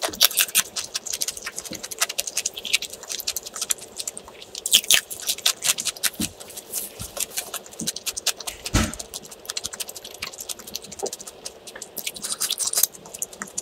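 Close-miked chewing of a crunchy cucumber slice: crisp crunching and wet mouth clicks that come in bursts, with quieter chewing between them.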